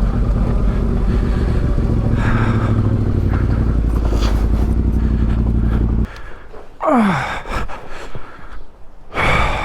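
Yamaha Ténéré 700's parallel-twin engine running at low speed, then switched off about six seconds in. A brief sound falling steeply in pitch follows, with a short noisy burst near the end.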